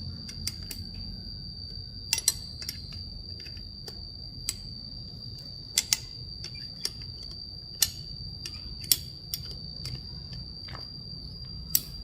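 Irregular sharp clicks and taps of hand tools on metal motorcycle parts, over a steady high-pitched whine.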